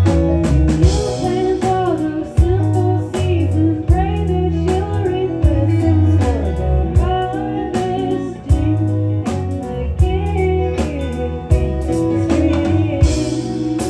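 Band playing a song: guitars over a steady bass line and beat, with a melody line that bends up and down in pitch.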